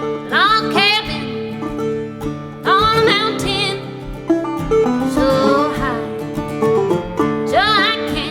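An acoustic string band playing an old-time folk tune, with banjo picking under sustained notes and a melody line that bends and wavers in pitch.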